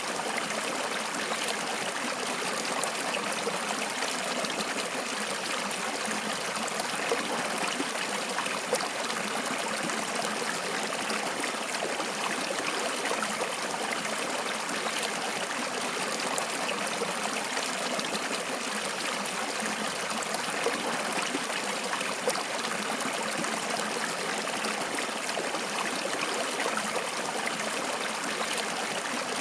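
Running water in a small stream, a steady even rush and burble with a few slightly louder splashes.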